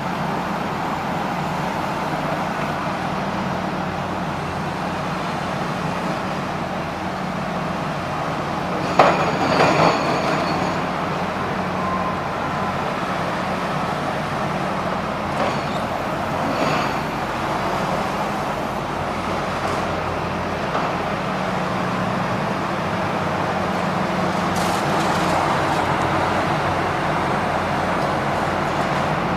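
Heavy diesel machinery running steadily on a demolition site, with a loud metallic clang about nine seconds in and a few lighter knocks later.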